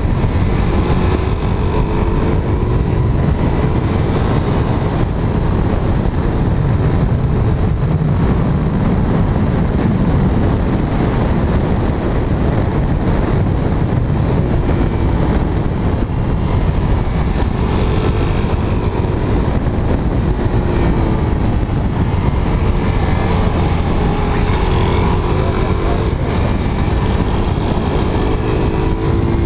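Motorcycle engine running at road speed, heard from a camera on the bike, its pitch rising and falling with throttle and gear changes over a steady rush of wind.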